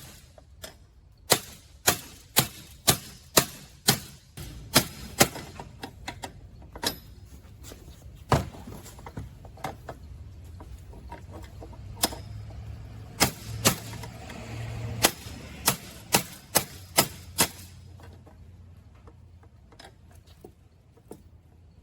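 Sharp hammer blows struck in runs, about two a second, with short pauses between runs.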